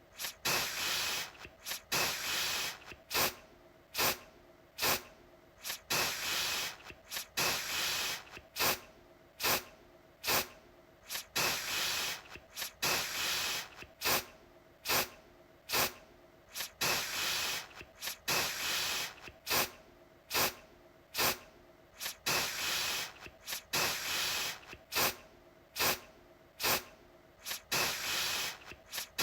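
Aerosol deodorant can sprayed in short repeated bursts, about one a second, each opening with a sharp click of the nozzle followed by a brief hiss.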